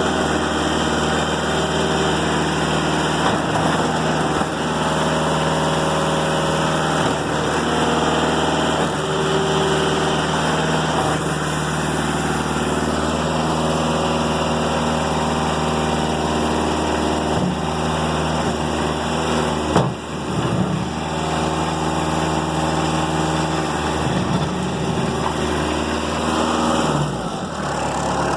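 A Kubota B3030 tractor's 30 hp four-cylinder diesel runs steadily at low throttle. Near the end its pitch drops.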